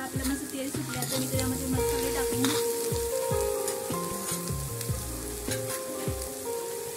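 Green masala and garlic sizzling in oil in an iron kadhai, with a steel spoon now and then clicking against the pan. Background music with held notes plays underneath.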